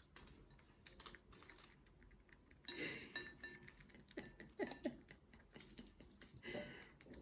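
Green cheek conure's beak picking at and crunching a walnut shell: faint, irregular clicks and small cracks in scattered clusters.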